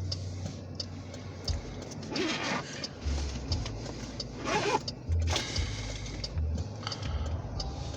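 Diesel locomotives of a Western New York & Pennsylvania light power move running by: a low rumble that swells and fades, with brief louder rushes of noise about two and four and a half seconds in.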